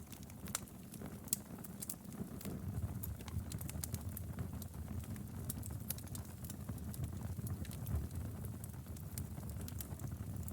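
Wood fire crackling in a fireplace: irregular sharp pops and snaps of burning firewood over a steady low rumble of the flames.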